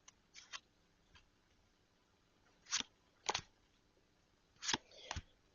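Tarot cards being drawn and laid down: a scattered series of brief, sharp card snaps and taps, the strongest two pairs about three and five seconds in.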